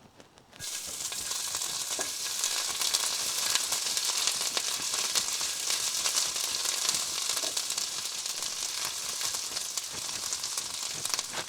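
Ginger frying in hot sesame oil in a pan, a steady sizzle that starts suddenly about half a second in as the ginger hits the oil.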